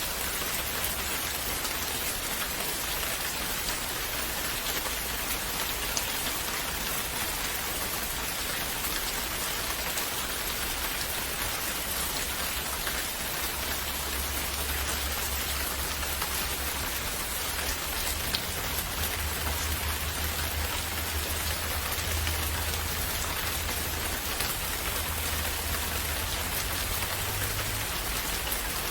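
Steady rain falling, an even hiss with scattered drops ticking, over a low rumble that swells about halfway through.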